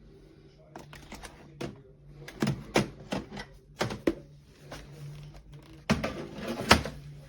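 A run of irregular sharp clicks and knocks, a dozen or so, heaviest about two and a half seconds in and again near the end, over a faint steady hum.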